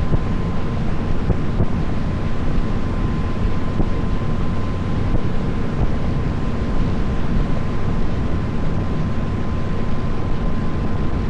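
A tour boat's engine running steadily under way, a constant drone with a thin steady whine above it, with wind buffeting the microphone.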